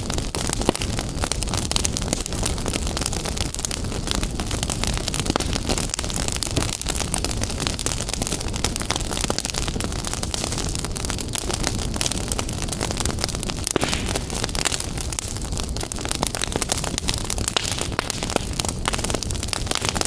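Wood fire crackling in a fireplace: a continuous, dense run of small pops and snaps over a low rumble of flames.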